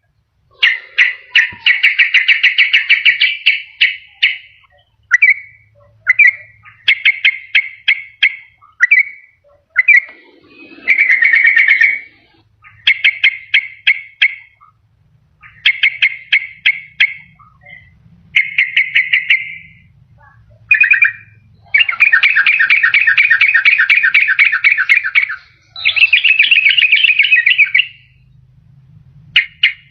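Sooty-headed bulbul (trucukan) singing in repeated bursts of rapid, chattering notes. Short phrases are broken by brief pauses, with longer unbroken runs near the start and again past the two-thirds mark.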